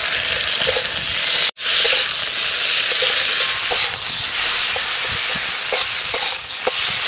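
Fried potato wedges sizzling in hot oil in a metal karahi as a spatula turns them with freshly added ginger and cumin paste, with frequent short scrapes and clicks of the spatula against the pan. The sound breaks off for an instant about one and a half seconds in.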